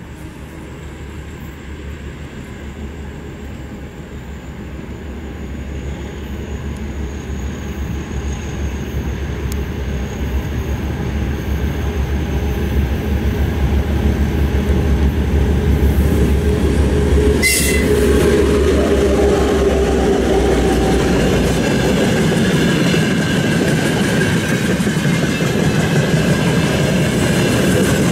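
A 2TE25K "Peresvet" two-section freight diesel locomotive approaches with a low engine drone that grows steadily louder. It passes about 17 seconds in with a brief sharp sound. Its train of freight wagons then rolls by, wheels rumbling and clattering over the rails.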